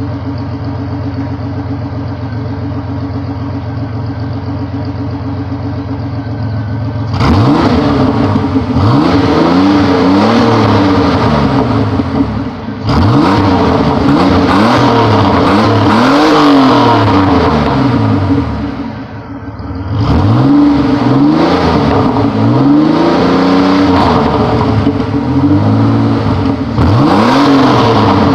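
Pontiac Fiero engine through its stock exhaust, idling steadily at first, then, about seven seconds in, revved again and again, its pitch climbing and falling every couple of seconds.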